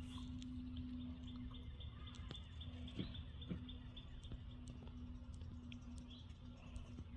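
A small bird chirping in a fast series of high notes for a couple of seconds, over a steady low hum.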